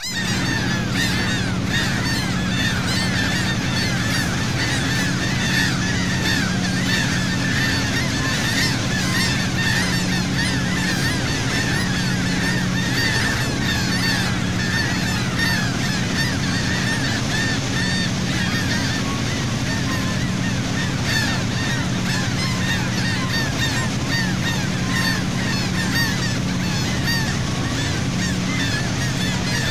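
A large flock of seagulls calling constantly, many short overlapping cries at once, over the steady low drone of the boat's engine.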